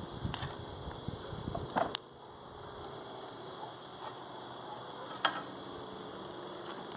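Chorizo sizzling on a grill over wood embers, a steady hiss with a couple of sharp pops. A low rumble underneath stops about two seconds in.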